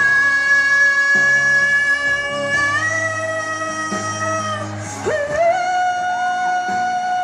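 A singer holding long wordless notes in a pop ballad, stepping up in pitch about three seconds in and sliding up into a new held note near five seconds, over a guitar accompaniment.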